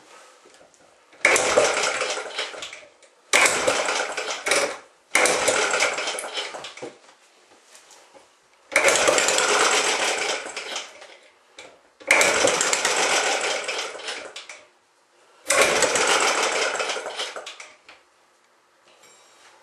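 Old small gasoline engine being cranked over and over, six tries, each a sudden burst of rattling engine noise that fades out within a few seconds without it staying running: an engine that hasn't run in a long time and won't catch.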